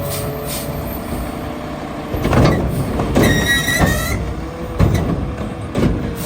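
Mack LR garbage truck working: its diesel engine runs steadily under several heavy bangs, with a brief high squeal about three seconds in.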